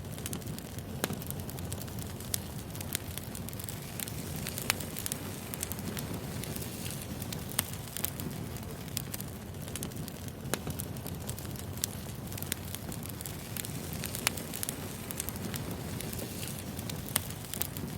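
Firewood burning: a steady low rumble with sharp crackles and pops at irregular intervals.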